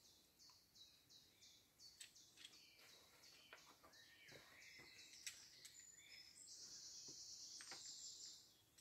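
Faint bird calls: a high note repeated about three times a second, then a longer buzzy trill near the end, with a few faint clicks.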